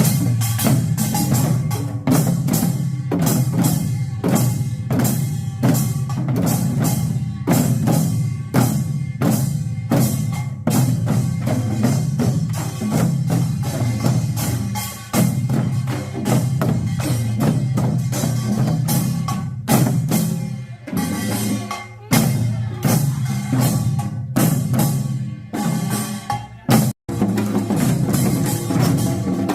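Korean pungmul percussion ensemble of gongs and drums playing a fast, dense pangut rhythm, with a momentary break near the end.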